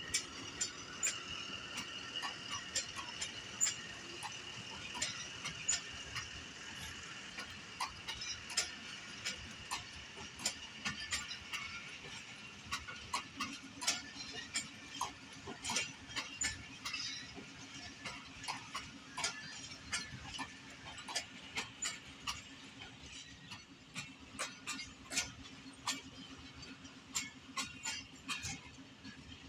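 Passenger train rolling slowly into the station: an irregular run of clicks and clanks from the wheels over rail joints, with a high, steady brake squeal that fades out about twelve seconds in. From about halfway a steady low hum sets in.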